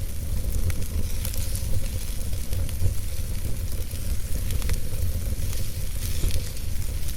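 Log fire burning in a fireplace: a steady low rumble and hiss with frequent small crackles and pops from the burning wood.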